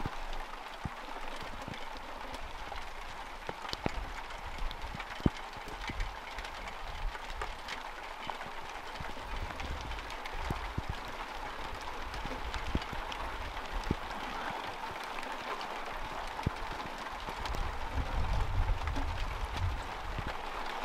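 Steady light rain, with scattered sharp clicks of drops and a low rumble that swells near the end.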